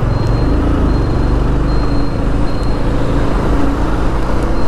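Yamaha FZ25 motorcycle's single-cylinder engine running steadily at a low road speed, heard from the rider's position under steady wind noise, with the drone of lorries in the traffic alongside.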